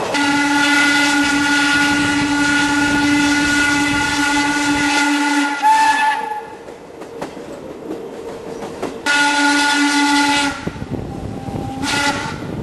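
Steam locomotive whistle blowing three blasts: one long blast of about six seconds, a shorter one a few seconds later, and a brief toot near the end, with a steady hiss between.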